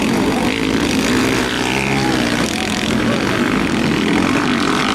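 Several motocross bikes' engines revving up and down together as they race around the track, their pitches rising and falling over one another.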